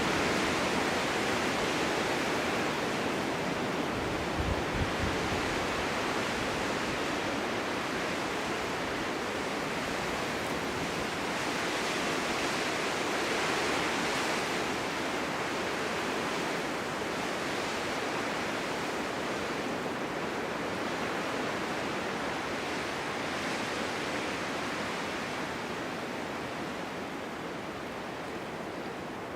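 Winter snowstorm wind blowing steadily, a rushing that slowly swells and eases, with a few brief low thumps of gusts buffeting the microphone about four to five seconds in.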